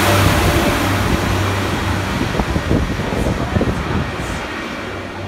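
Northern Class 142 Pacer diesel railbus pulling away, its engine drone and running noise fading steadily as it moves off. A few sharp clicks come between about two and a half and four seconds in.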